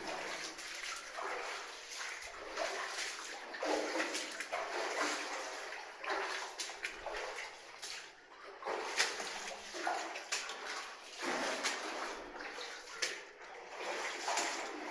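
Water sloshing and splashing in irregular surges, with a few sharp clicks, inside a mine tunnel.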